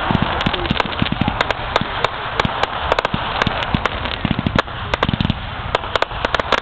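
Fireworks going off in quick succession: many sharp, irregular cracks and pops over a steady crackling hiss.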